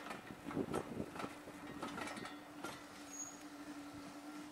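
A train of British Rail Mark 1 passenger coaches rolling past on the track. The wheels give irregular clicks and knocks over steady rolling noise, with a faint steady tone underneath.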